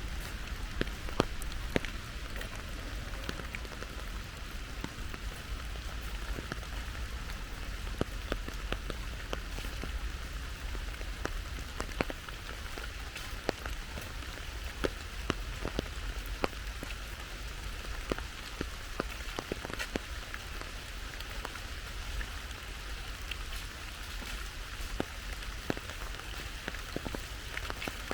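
Steady rain falling, a continuous patter with many scattered louder drops ticking sharply throughout.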